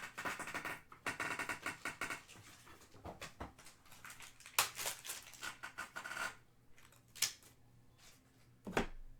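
Trading cards being handled and shuffled on a table: bursts of rustling and clicking in the first two seconds and again midway, with one heavier knock near the end.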